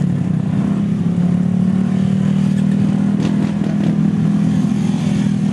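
Small engine running at a steady speed, a constant low drone with no change in pitch.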